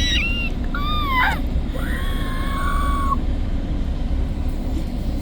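GO train interior: a steady low rumble, with a few high squealing tones in the first three seconds that bend in pitch, the last one held for about a second.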